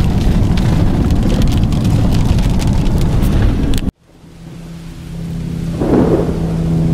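Rain pattering on the windshield of a moving vehicle, with road and wind noise, cutting off abruptly about four seconds in. Rain sound then fades back up, a swell of thunder comes about six seconds in, and a steady music chord enters near the end.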